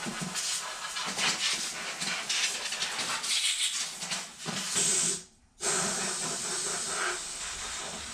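Compressed-air blow gun hissing as air is blown through the turbo's lines. There are two long blasts, with a short break about five seconds in.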